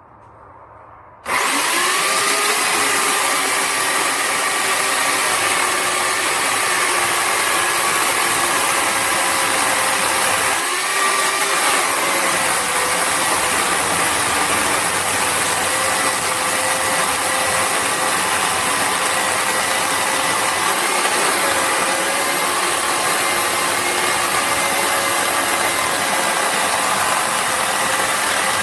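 WEN CP1014 10-amp corded electric chainsaw starting abruptly about a second in, its motor whining up to speed and then running loud and steady, with a brief dip in pitch about ten seconds in.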